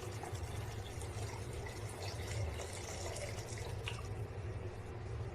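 Water being poured into a pan of hot masala gravy base, splashing, with the pouring ending about four seconds in. A steady low hum runs underneath.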